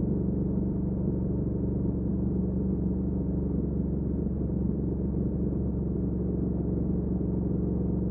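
A Triumph Speed Twin 1200's parallel-twin engine, breathing through a Weslake Shorty Pro exhaust, idling with a steady low hum.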